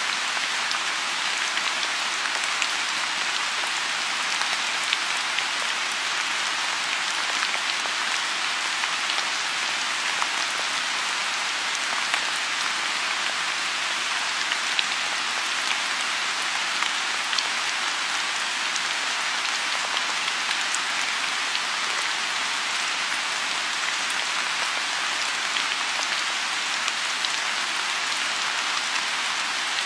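Steady rain falling on a lotus pond: an even hiss of rain, with many small, sharper drop ticks scattered through it.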